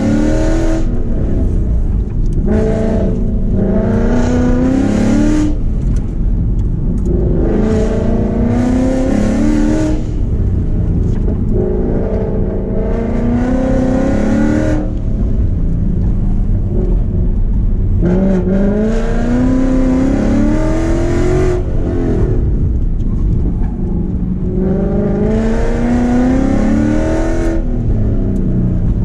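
2015 Ford Mustang GT's 5.0 V8, fitted with long-tube headers, an X-pipe and Borla ATAK mufflers, heard from inside the cabin under hard driving. The engine note climbs in pitch under full throttle and drops off on lifting, again and again, between the corners.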